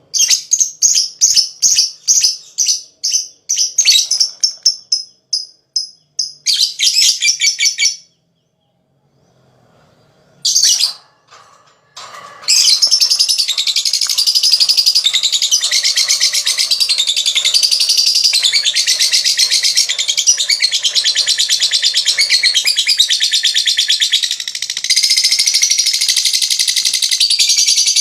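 Lovebird calling: a run of short sharp chirps, about three a second, then a brief rapid trill and a pause. A little before halfway it breaks into one long unbroken rapid chatter, the long 'ngekek' trill that fanciers prize.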